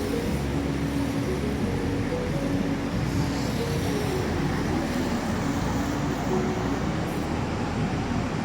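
Steady noise of busy multi-lane road traffic, mixed with wind on the microphone.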